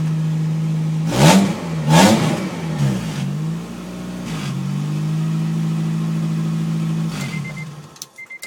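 Honda H22A Euro-R 2.2-litre DOHC VTEC four-cylinder idling steadily on its first start after an engine swap. It is blipped up twice in quick succession about a second in, then once more lightly, and settles back to idle each time. Near the end the engine is switched off and dies away, with a couple of short electronic beeps.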